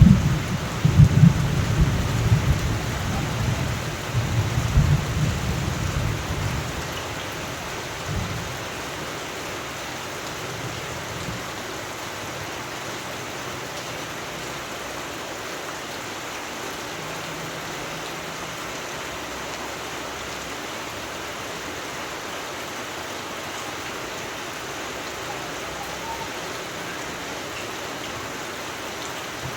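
Steady rain with a roll of thunder rumbling at the start, dying away over the first several seconds, with a last short rumble a little later. After that only the even hiss of rain.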